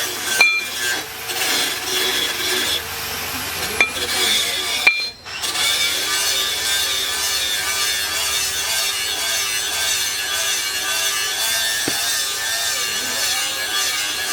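Steady rasping of a hand tool worked back and forth, after a few sharp clicks in the first five seconds and a brief break at about five seconds.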